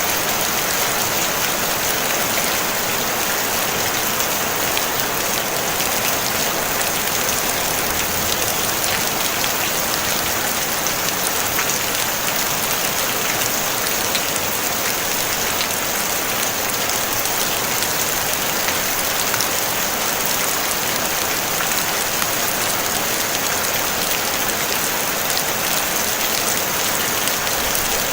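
Steady rain falling on a tin roof: a dense, even hiss of many small drop ticks, strongest in the high range, with no thunder.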